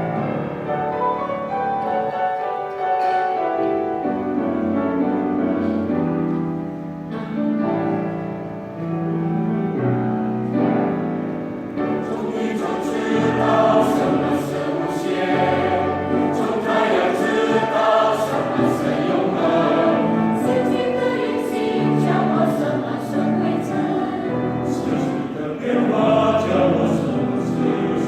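Choir singing a choral piece with piano accompaniment; the sound grows fuller and brighter about twelve seconds in.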